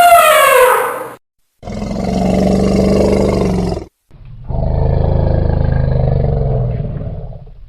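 Elephant calls: a trumpet call falls in pitch and cuts off about a second in, followed by two long, low roars of about two and three seconds each.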